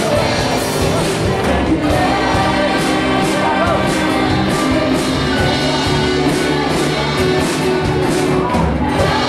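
Rock band playing live, unmixed: a lead voice singing over guitars, bass, drums and keyboard, with cymbals crashing through.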